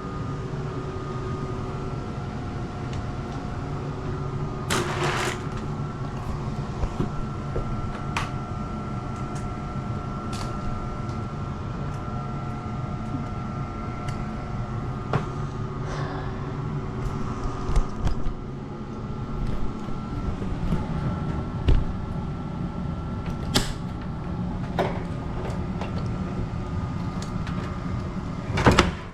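Steady mechanical hum of HVAC equipment running, with a few sharp knocks and clatters from the unit being handled: one about five seconds in, another about two-thirds through and the loudest just before the end.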